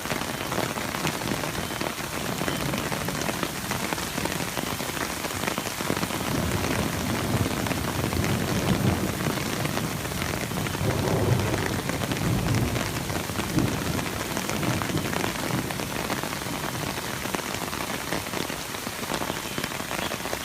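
Hailstorm with heavy rain pelting down steadily, a dense patter of countless small impacts, with deeper rumbling swells around the middle.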